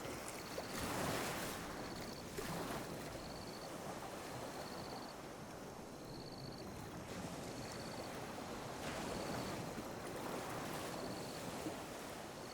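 Gentle sea waves lapping and washing on a beach in soft swells. A faint high chirp repeats about once a second.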